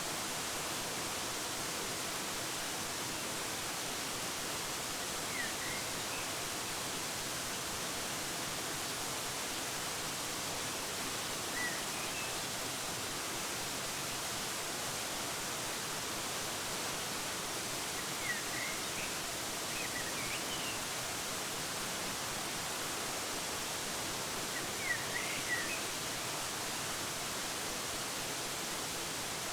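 Steady, even rush of a waterfall, with a few brief bird chirps now and then, most of them in small clusters in the second half.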